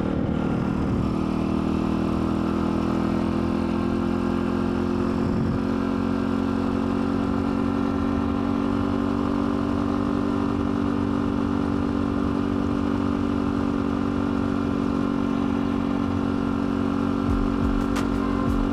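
Dirt bike engine running at a steady, even speed while being ridden.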